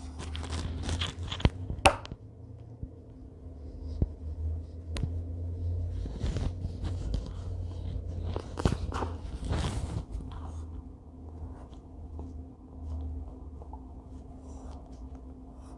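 Drawing on paper: scratchy scraping strokes with several sharp knocks and clicks, busiest in the first two seconds and again around the middle.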